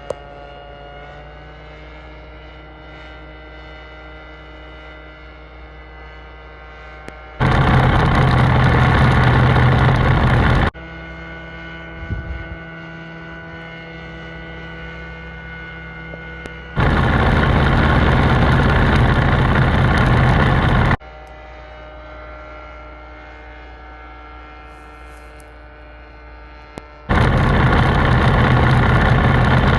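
Filin EL BUHO S ultralight aircraft's engine running. It switches abruptly back and forth between a steady, evenly pitched drone and a much louder, close-up engine noise with no clear pitch.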